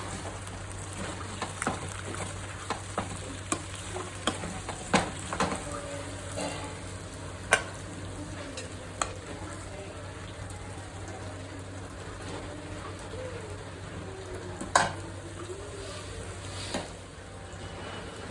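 Masala-coated chicken sizzling and frying in a kadai, with a steady hiss. The chicken is being stirred, and the utensil knocks and scrapes against the pan now and then; the loudest knocks come about five, seven and a half and fifteen seconds in.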